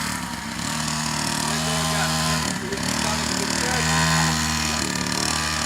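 Small dirt bike engine running steadily, its pitch and level shifting slightly up and down a few times as the throttle moves.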